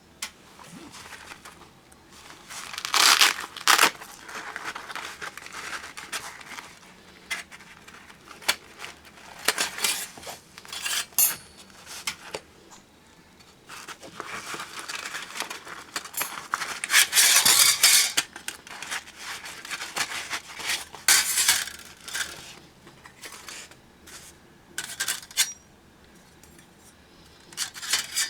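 Thin titanium plates of a One Tigris folding fire stand being handled and fitted together, giving irregular light metallic clinks, rattles and scrapes with pauses between them, the loudest run of clattering about two-thirds of the way in.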